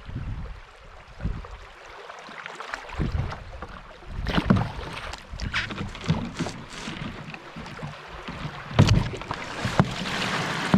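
Water splashing and slapping against a canoe in choppy, wind-driven waves, with wind on the microphone. Sharper splashes or knocks come about four and nine seconds in, as waves hit the boat and spill into it.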